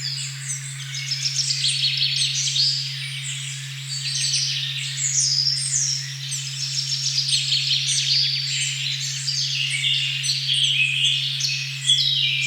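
Dense chorus of many songbirds singing at once, overlapping short, quick notes, over a steady low pure tone at 136.1 Hz that runs unchanged underneath.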